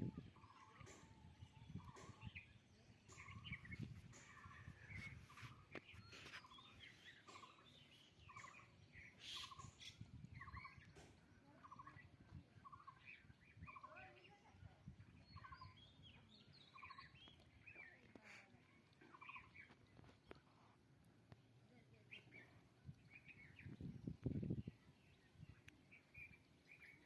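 Birds calling in the countryside, faint: one bird repeats a short note steadily, a little more than once a second, for about the first half, while others chirp. A low thump near the end.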